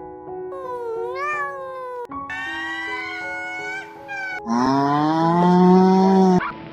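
A cat meowing in drawn-out calls that bend in pitch, over background music; the loudest and lowest call comes in the last two seconds.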